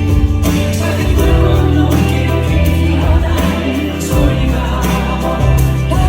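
Live ballad performance: music with a steady bass line and sung vocals, the voices sounding like several people singing together.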